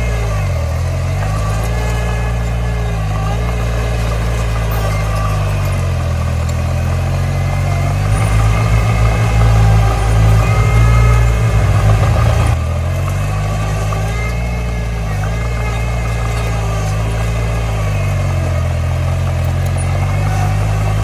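Komatsu D20 bulldozer's diesel engine working, its speed dipping and rising again several times as it takes and sheds load. A louder, rougher stretch in the middle ends abruptly.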